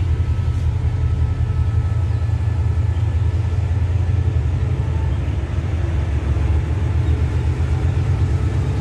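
Diesel-hauled passenger train rolling slowly past along the platform: a steady, loud low rumble from its diesel engines that does not change.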